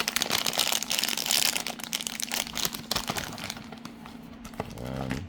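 Plastic packaging crinkling as accessories are pulled out of a box. It is dense and loud for about the first three seconds, then lighter.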